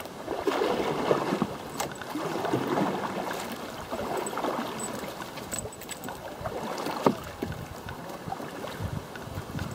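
Canoe moving through river water, water splashing and gurgling against the hull in swells every second or two, with a sharp knock about two seconds in and another about seven seconds in.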